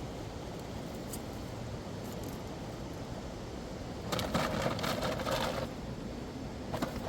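Steady rushing of a mountain river. About four seconds in, a burst of noise lasts about a second and a half, and a short click comes near the end.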